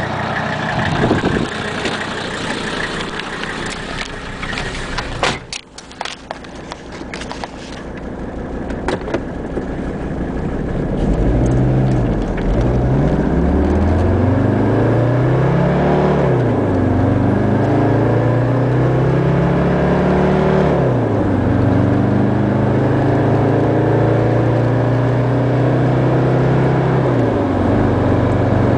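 Mercedes OM617 five-cylinder turbodiesel, from a 1980 300SD, running through a 2.5-inch straight-pipe exhaust. After a noisy stretch with a few clicks, the engine note climbs and falls several times, then holds mostly steady at a higher pitch with a couple of drops.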